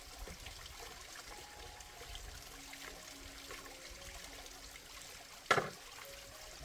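Water trickling steadily under soft background music, with one sharp knock about five and a half seconds in.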